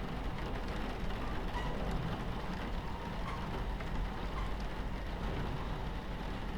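Steady low rumble of a train running on its tracks, mixed with rain falling against the carriage window.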